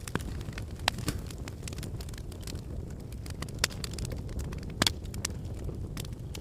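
Fireplace fire burning with a low steady rumble and irregular crackling, with a few sharper pops, the loudest about a second in and again near five seconds in.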